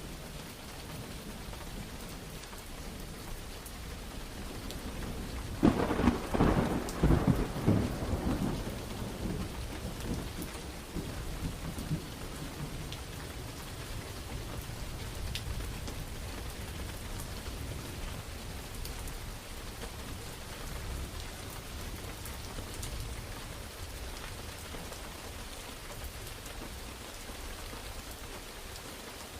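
Steady rain with a thunderclap: a sharp crackling crash about six seconds in, the loudest part, then a low rumble that fades over several seconds into the rain.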